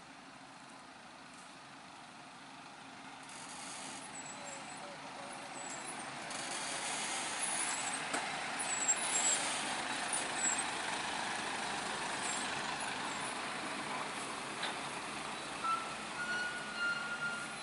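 A heavy truck running, growing louder from about four seconds in. Short high squeaks come around the middle, and a thin steady whine comes near the end.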